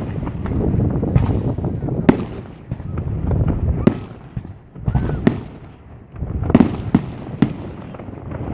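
Fireworks display: sharp bangs of bursting shells over a continuous low rumble, with a quick cluster of bangs about two thirds of the way through.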